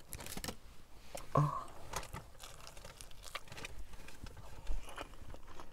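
A person chewing a mouthful of burrito close to the microphone, with scattered small clicks and a brief hum about a second and a half in.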